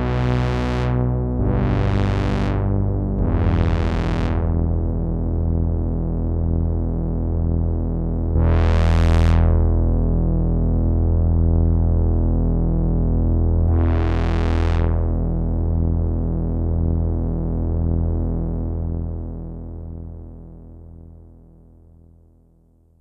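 Sequential analog polysynth playing sustained low chords. Five times the sound swells bright as the filter opens and then closes again, and it fades out slowly near the end.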